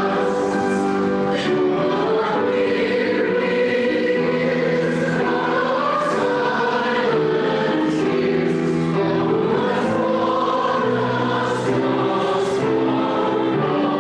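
A choir singing a hymn in held chords.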